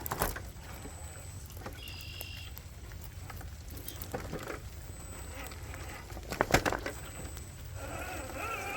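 RC4WD Gelande 2 scale crawler working slowly over wet rock and mud: a faint steady motor sound, with a couple of sharp knocks of the truck on rock, the loudest about six and a half seconds in.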